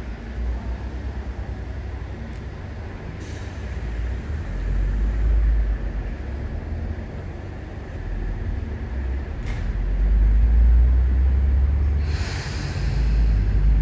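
Electric commuter train at the platform, a low rumble throughout with a few short clicks. About twelve seconds in comes a burst of hissing air from the brakes.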